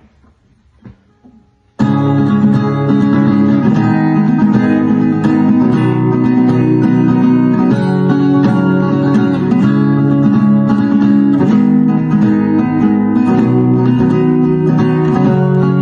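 Guitar music, plucked and strummed, starting abruptly about two seconds in after a few faint sounds, then playing on at a steady level.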